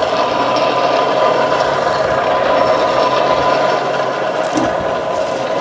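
Blacksmith's forge running: a steady whirring rush with a constant hum, without hammer blows.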